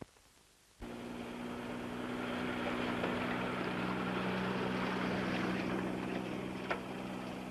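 A vehicle travelling, a steady rumbling noise with a low hum under it, starting abruptly about a second in.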